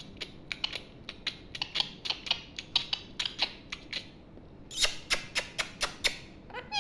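Pet parrot making a run of short dry beak clicks, about three a second, breaking off briefly and then coming back louder for a quick flurry near the end.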